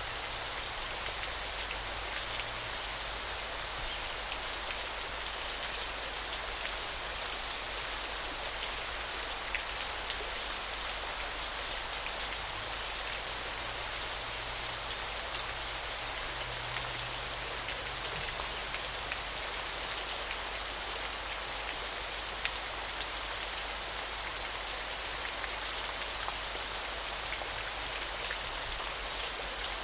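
Steady rush of flowing river water. Over it, a high thin call repeats about a dozen times, in bursts of a second and a half to two seconds with short gaps between.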